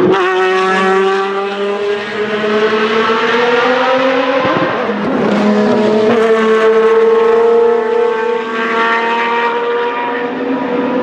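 Lamborghini Murciélago R-SV GT1 race car's V12 accelerating hard, its pitch climbing steadily, with an upshift about four and a half seconds in, then a second long climb through the next gear.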